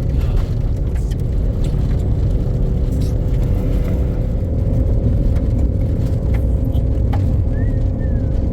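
A motor vehicle driving: a steady low engine and road rumble with a constant hum.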